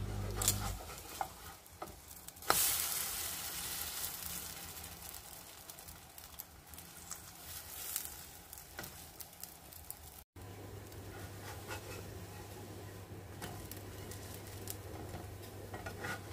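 French toast frying in a nonstick skillet: a steady sizzle, louder after a spatula knocks against the pan about two and a half seconds in as the slice is turned, then slowly dying down, with scattered small taps and scrapes of the spatula.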